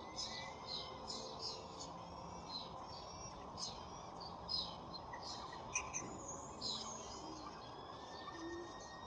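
Birds chirping: a run of short, high chirps, several falling in pitch, about two a second, over a steady low background hum.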